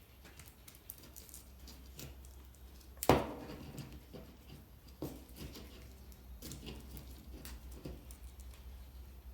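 Tape being wrapped around a bundle of loose wiring-harness wires by hand: scattered light clicks, taps and rustles, with one sharp snap about three seconds in, over a steady low hum.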